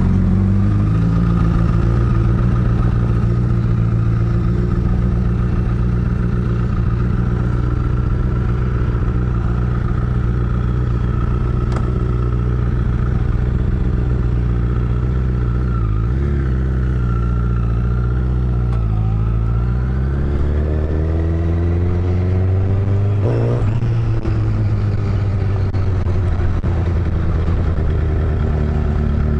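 Honda CBR1000RR Fireblade's inline-four engine running at low revs as the bike rolls slowly. Past the middle the revs climb for a few seconds, then drop back and settle. It is heard from a mic inside the rider's helmet.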